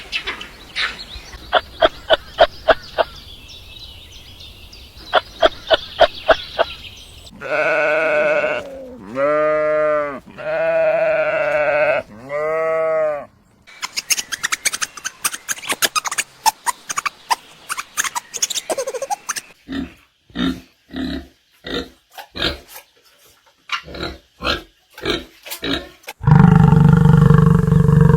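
A string of different animal calls. First comes a run of rapid, pulsed clicking calls. Then there are four drawn-out calls with a wavering pitch, a stretch of short repeated grunts, and a loud, low call near the end.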